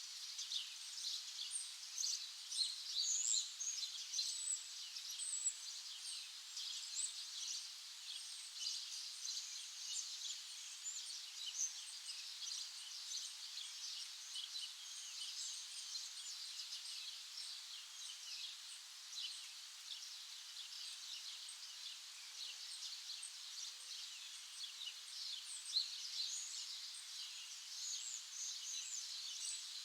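Many small birds chirping and singing together: a dense chorus of short, high notes and trills.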